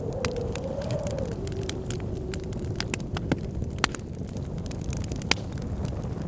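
Wood fire crackling with irregular sharp pops, over blizzard wind howling in a wavering tone and a steady low rumble.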